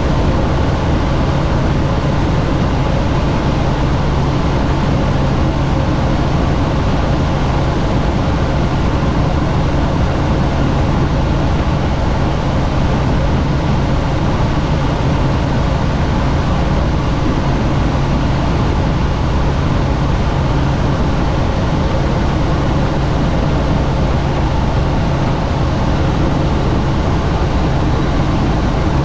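Helicopter in flight, its engine and rotor running with a loud, steady hum and rush of air, heard from on board with the doors off.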